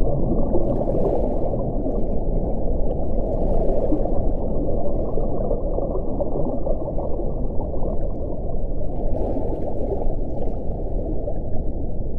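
Wind blowing steadily with a deep, muffled rush, and three faint swells of higher hiss, about one, three and a half and nine seconds in.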